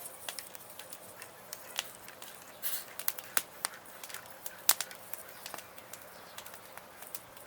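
Wood fire in a small campfire stand crackling, with irregular sharp pops and snaps, the loudest about two-thirds of the way through.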